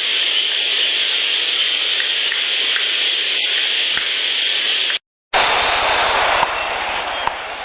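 Loud, steady hiss of a heavily amplified outdoor field recording, with faint ticks underneath. About five seconds in it cuts out briefly and a second, duller hissing recording begins.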